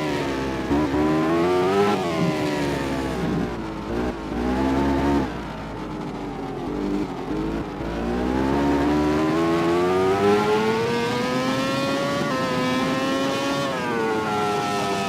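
A MotoGP race motorcycle's high-revving four-stroke engine, braking down and accelerating through the gears. The pitch falls and rises several times, then climbs in one long pull from about six seconds in and holds high.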